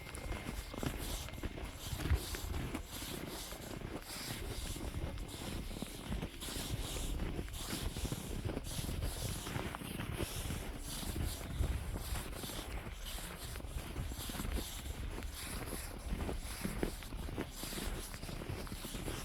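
Footsteps crunching through deep snow at a walking pace, with wind rumbling on the microphone.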